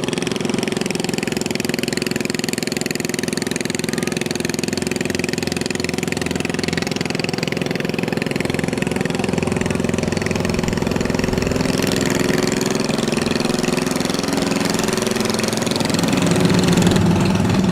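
Boat motor running steadily at low speed, a little louder near the end.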